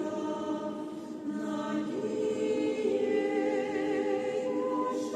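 Church choir singing a sacred song, holding long sustained chords that move to a new chord about two seconds in.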